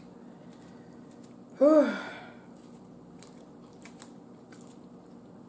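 A woman chewing a mouthful of BBQ ribs and mac and cheese, with faint scattered mouth and fork clicks. About one and a half seconds in comes a short hummed "mmm" of enjoyment that rises and falls in pitch.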